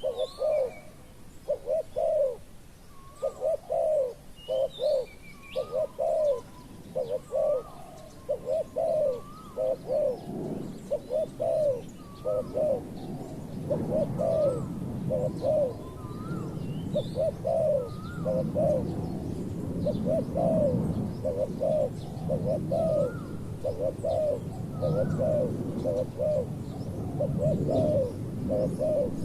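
Spotted doves cooing over and over in short repeated phrases, a tame decoy dove and a wild dove answering it. Faint chirps of small birds sound in between, and a low rumble comes in about a third of the way through.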